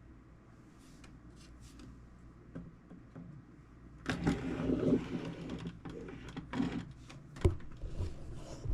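Quiet room tone, then from about four seconds in rubbing and handling sounds on the toolbox, with a couple of sharp knocks near the end.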